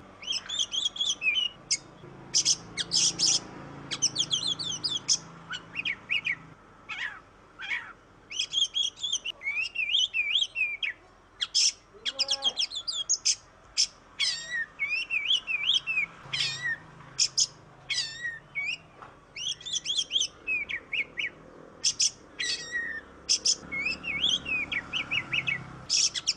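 Oriental magpie-robin (kacer) singing a rapid, almost unbroken song of varied whistled phrases and sharp chattering notes.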